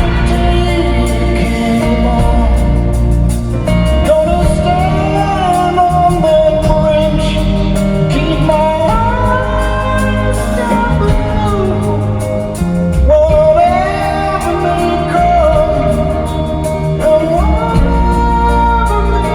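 Live rock concert music: a band playing with a sung melody over it, heard in a large arena.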